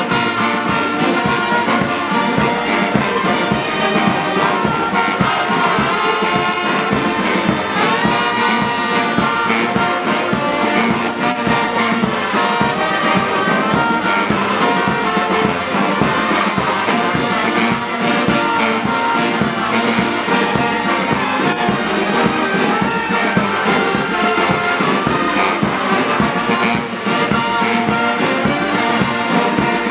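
Brass band music, with trombones and trumpets, playing steadily without a break.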